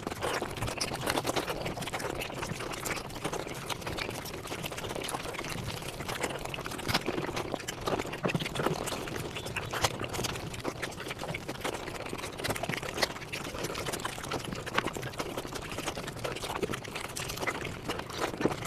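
Eating sounds played at five times normal speed: dense, rapid chewing, lip-smacking and wet slurping that run together into a continuous crackle of clicks.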